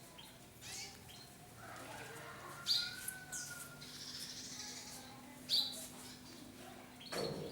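Canaries giving a few short, high chirps, the two loudest about two and a half and five and a half seconds in, with a faint thin whistled note between.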